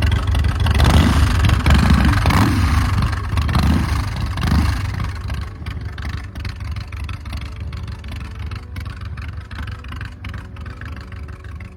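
American IronHorse LSC's 117 cubic inch S&S V-twin through a Vance & Hines exhaust, running with a deep rumble and revved in short blips several times during the first five seconds. After that the sound fades away steadily.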